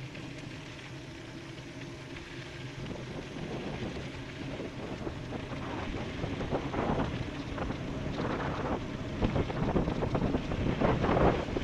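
Wind buffeting the microphone of an e-bike rider descending at about 28 mph, growing louder and gustier toward the end.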